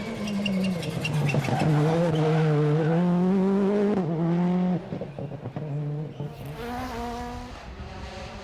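Rally car engine at full throttle, its pitch dipping and climbing through gear changes, with a rapid run of sharp cracks in the first two seconds. It cuts off sharply about five seconds in, and another car is then heard accelerating, quieter.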